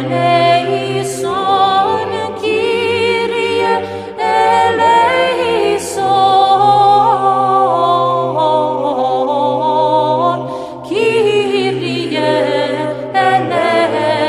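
Greek Orthodox Byzantine chant sung a cappella: voices with vibrato over a steady low held drone, like an ison.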